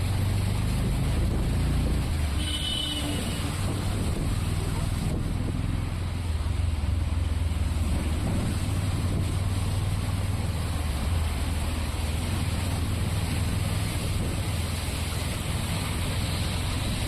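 Heavy rain pouring, a steady hiss, over a low steady rumble. About two and a half seconds in, a short faint high-pitched tone.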